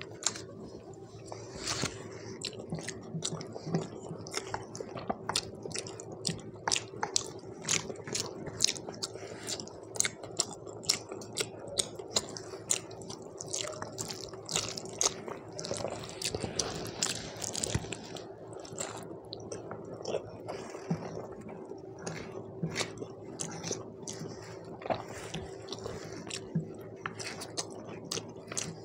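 Close-up wet chewing of a mouthful of rice and mutton, with many irregular lip smacks and mouth clicks, and the soft squish of fingers kneading rice with thin mutton curry. A faint steady hum runs underneath.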